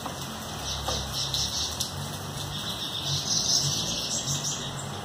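Light rain falling in a steady patter, with scattered drops striking nearby.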